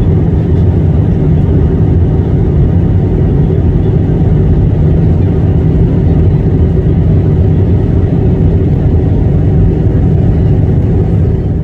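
Steady low rumble of airliner cabin noise from the jet engines and airflow, heard from a window seat during the descent. A faint steady hum sits over the rumble, and the level drops a little right at the end.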